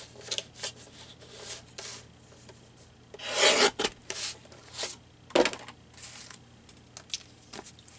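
Paper or card being scraped and rubbed as it is worked into place, in a series of short rasping strokes. The loudest and longest stroke comes about three and a half seconds in.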